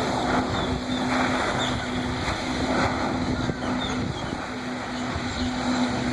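Jet ski engine running at a steady held pitch, driving a water-jet flying rig, over a constant rush of spraying water.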